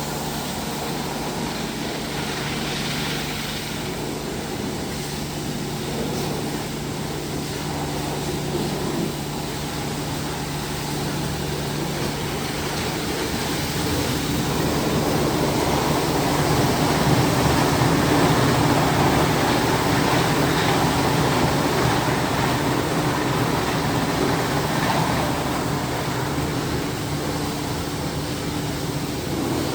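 Christ Vega C170 automatic car wash machine running through its wash cycle: a steady machine hum with washing noise, which changes about thirteen seconds in to a louder, rougher washing sound.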